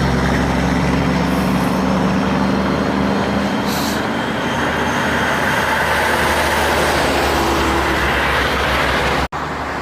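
Heavy diesel trucks passing on the road: a steady engine drone and tyre noise, with a short high hiss about four seconds in. The sound cuts off abruptly near the end.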